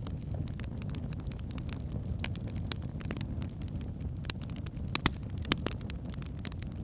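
Logs burning in a fireplace: scattered sharp crackles and pops over a steady low rumble of the flames, with two louder pops about five seconds in.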